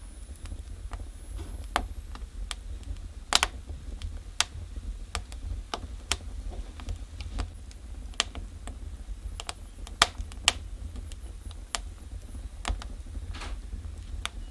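Wood burning in a fireplace, crackling with irregular sharp pops of varying loudness over a steady low rumble; the loudest pops come about three and a half seconds and ten seconds in.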